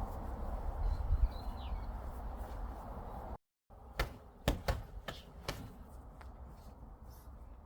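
A low rumbling background, then an abrupt cut to quieter sound with a handful of sharp knocks or taps, the loudest about a second after the cut.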